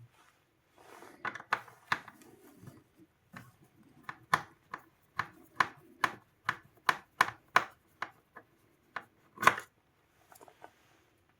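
A series of sharp clicks and taps, about three a second for a few seconds, then one louder knock near the end.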